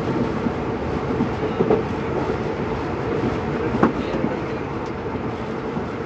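A train running on the rails: a steady rumble with scattered wheel clicks and one sharper click about four seconds in, easing slightly toward the end.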